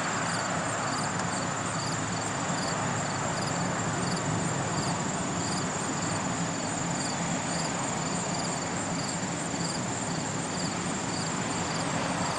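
Crickets chirping in an even rhythm, about three chirps every two seconds, over a continuous high trill and a steady wash of background noise.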